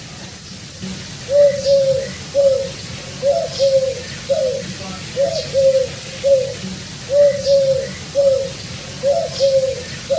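Feral pigeon cooing over and over, a run of short, low, repeated coos beginning about a second in and coming roughly one or two each second.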